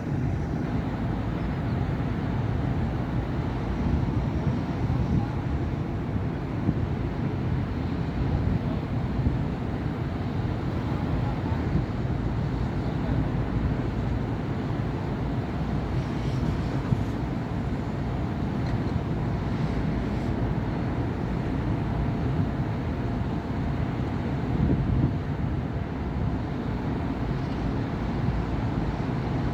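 Steady city road traffic on a busy avenue: a continuous low rumble of passing cars and other vehicles, with a few slightly louder pass-bys along the way.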